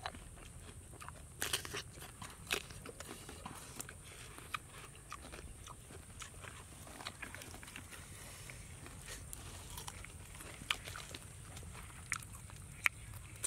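A person chewing and crunching food close to the microphone: irregular crisp crunches and clicks, a few sharper ones standing out.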